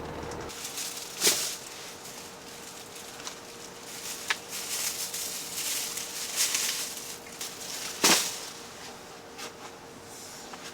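Irregular rustling and scuffing noises with two sharper, louder swishes, about a second in and again near eight seconds, over a faint steady hum.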